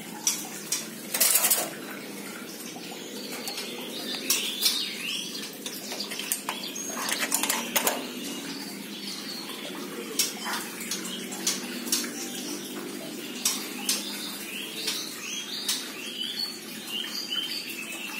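Birds chirping in short calls that come more often near the end, with scattered sharp clicks and rustles and a louder flurry of wingbeats or rustling about a second in, over a steady low background noise.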